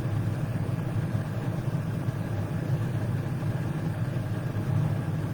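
Steady low mechanical hum, even throughout, like an engine idling.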